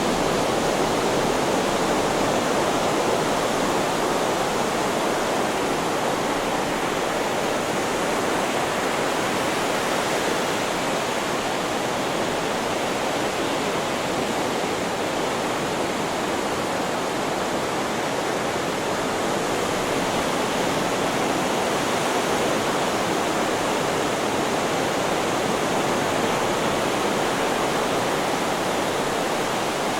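Steady hiss of white noise laid in for sleep, even in level throughout with no wave surges standing out.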